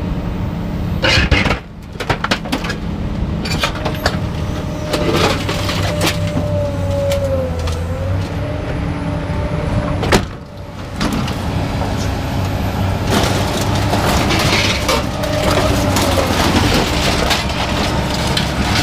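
Heavy engine running steadily with a wavering whine over it, and repeated metal clanks and knocks of scrap being handled.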